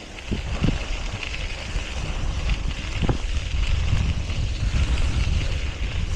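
Wind buffeting the microphone of a cyclist riding along, a steady low rumble that grows stronger, with a constant hiss and a few brief thumps.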